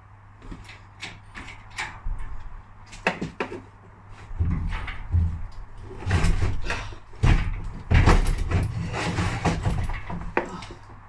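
Irregular metallic knocks, clunks and rattles, with a cluster of heavy low thuds in the middle. This is the engine and gearbox being shifted and levered out of the van's engine bay.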